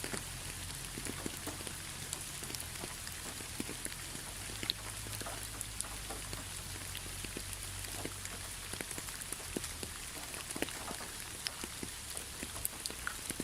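Steady rain falling, an even hiss with many scattered, sharp individual drops tapping nearby, over a faint low rumble.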